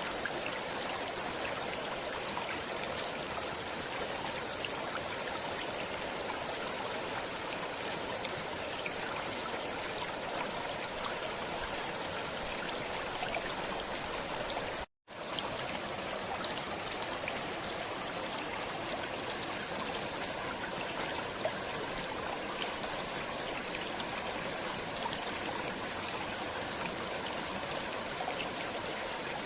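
Stream water flowing and trickling steadily, an even rushing wash, with a sudden momentary dropout to silence about halfway through.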